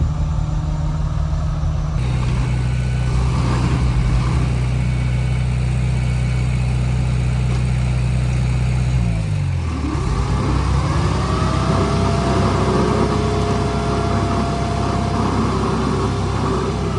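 Komatsu D31P bulldozer's diesel engine running steadily. About nine seconds in its note drops, and then a whine rises and holds.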